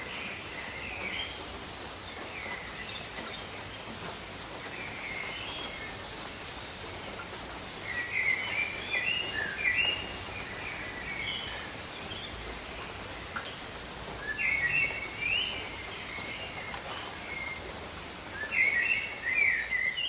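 Steady light rain with a songbird singing short warbling, chirping phrases over it; the birdsong comes in three louder bouts in the second half.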